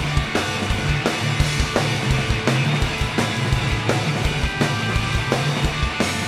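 Live rock band playing an instrumental passage between sung lines: a steady drum-kit beat with regular hits over sustained bass notes, with guitar.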